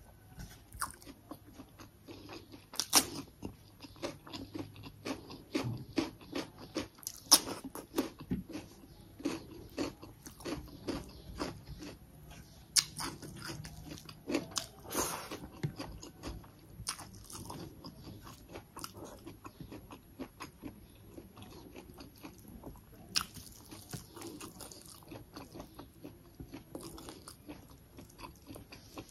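A person chewing and biting mouthfuls of rice and chicken eaten by hand, with crunches and wet smacking clicks, a few of them sharp and much louder than the rest.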